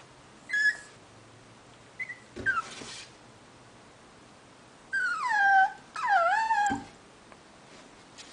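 A dog whining and moaning in a chatty way: a short high squeak about half a second in and another at about two seconds, then two longer whines after about five seconds that slide down in pitch and waver.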